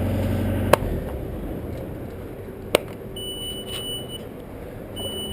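Bucket truck at the base of its aerial lift: a sharp click, after which the low engine hum falls away, another click, then a steady high electronic warning beep about a second long that sounds again near the end.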